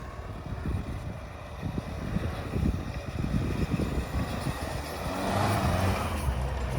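Mitsubishi L200 pickup engine running as the truck works through deep snow, getting louder over the last couple of seconds, with wind buffeting the microphone.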